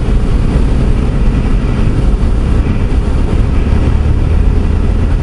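Cessna 172SP's four-cylinder Lycoming engine and propeller droning steadily, heard loud from inside the cockpit with airflow noise over it.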